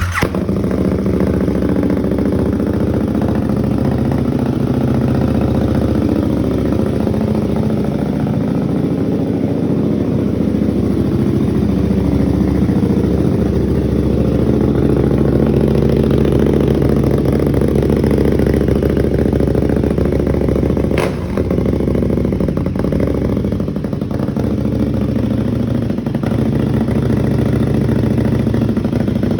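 A 2018 KTM 1290 Super Duke R's V-twin breathing through an Austin Racing full exhaust fires up right at the start and runs at a loud, steady idle. There is a brief dip with a sharp click about two-thirds of the way through.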